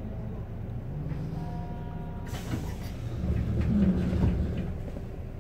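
Passenger train running, heard from inside the carriage: a steady low rumble with a faint rising whine about a second in, growing louder in the second half.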